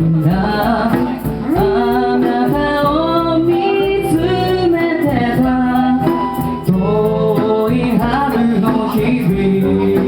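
Live band playing a slow pop ballad, a melody line carrying on with no lyrics in the interlude between verses.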